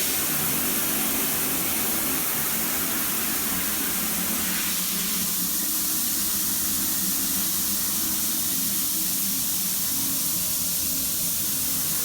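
Shower head spraying water, a steady loud hiss, with a low steady hum underneath: the odd noise that the installer suspects is a vibration in the shower valve's cartridge.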